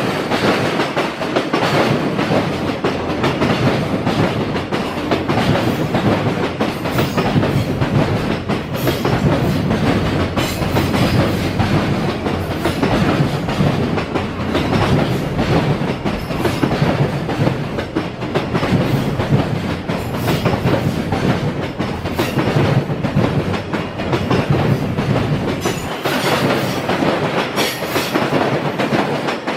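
Freight train rolling past, its wagons' wheels clattering steadily over the rails in a continuous loud run of wheel-and-rail noise.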